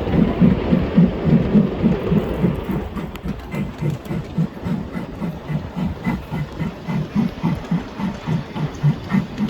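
Ride-on train running along its track, with a steady rhythmic clatter of about three to four beats a second that eases off a little after a few seconds.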